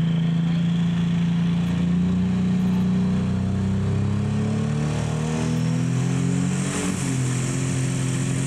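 Pro stock pulling tractor's turbocharged diesel engine running loud under load. Its pitch rises a little, drops about halfway through, then holds steady.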